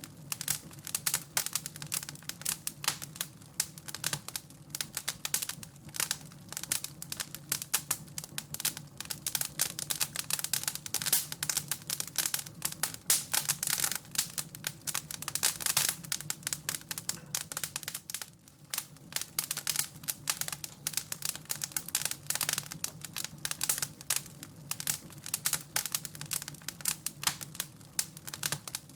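Wood fire crackling in a fireplace: a continuous, irregular stream of sharp pops and snaps over a low steady hum.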